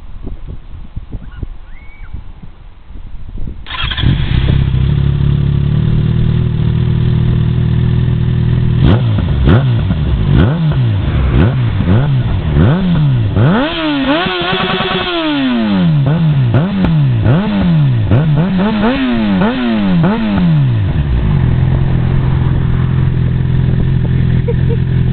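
Yamaha XJ6 N's 600 cc inline-four, breathing through a Devil Master Carbon aftermarket exhaust, starts up about four seconds in and idles. It is then revved in about ten quick blips with one longer held rev in the middle, before settling back to a steady idle near the end.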